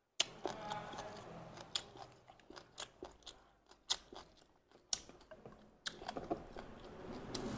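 A person chewing a mouthful of bún riêu noodle soup close to the microphone, with a string of sharp wet mouth clicks and smacks.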